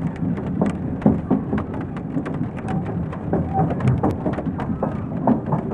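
Inside a train dining car: a steady low rumble from the moving train, light rain ticking on the window, and indistinct murmuring chatter.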